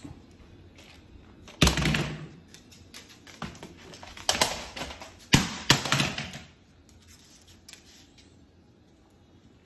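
A Moluccan cockatoo at play, making scattered sharp clicks and three loud, harsh bursts about two, four and a half, and five and a half to six seconds in.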